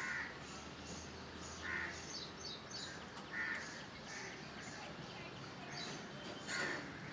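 Birds calling: a short, loud call every second or two, with thin high chirps from smaller birds in between, over a steady background hiss.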